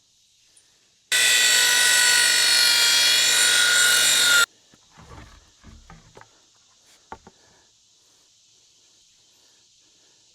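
Electric power saw cutting through a wooden board: about three seconds of steady, loud cutting that starts about a second in and stops abruptly. A few light knocks of wood being handled follow.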